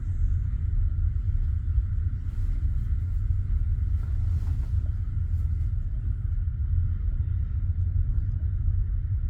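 Steady low rumble inside a passenger train carriage, with no distinct rhythm of wheel clicks.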